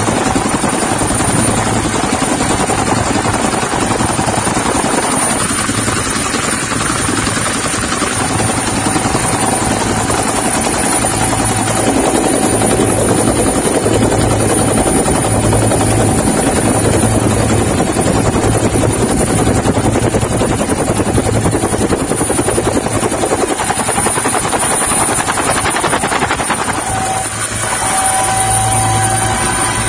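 Military helicopter's rotor and turbine engine running, a loud steady noise with a low hum that pulses about once a second.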